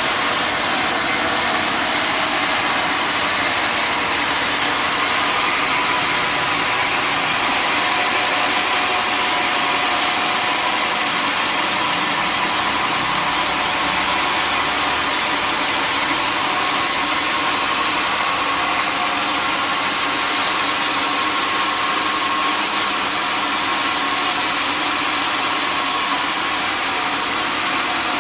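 Sawmill running steadily: a continuous even hiss with a faint steady whine and no breaks.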